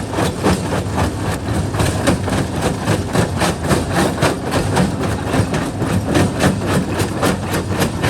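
Jaw crusher breaking rock: rapid, irregular knocks and cracks of stone being crushed, several a second, over the steady low hum of the running machine.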